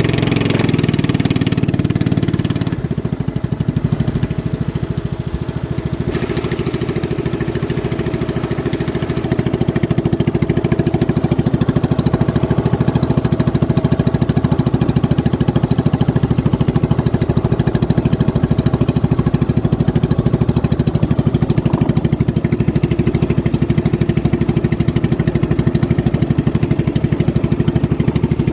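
Boat engine running steadily, easing off for a few seconds about three seconds in, then picking up and holding a steady, louder run from about nine seconds on.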